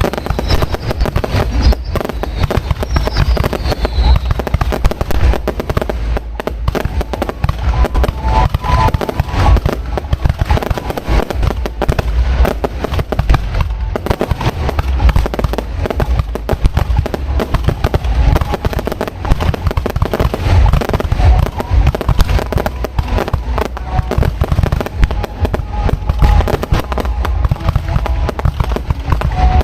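Fireworks display heard from close to the launch site: a dense, continuous barrage of shell bursts and crackling with deep booms, and a few falling whistles near the start.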